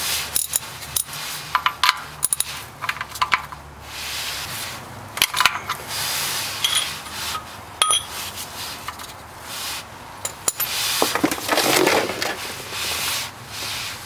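Irregular metallic clinks and clatter of a socket wrench working the drain plug on a car's oil pan, some clinks ringing briefly, with stretches of softer rustling noise between them.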